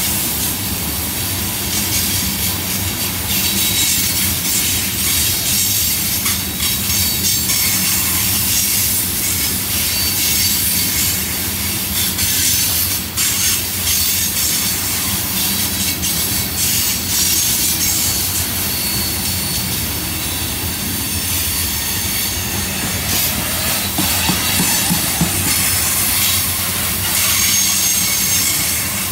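Loaded coal hopper cars rolling past on the rails: a steady low rumble with a high wheel-on-rail hiss and faint clicking of wheels over the track.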